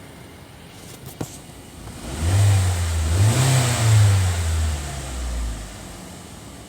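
Mazda CX-7's 2.3-litre turbocharged four-cylinder engine revved up briefly, its note rising and falling twice over a few seconds with a hiss on top, then settling back to a low idle. A sharp click comes just before the rev.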